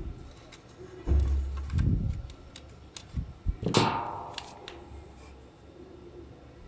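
Workshop handling noise: a low rumble, two short knocks, then a sharp metallic strike about four seconds in that rings out for about a second.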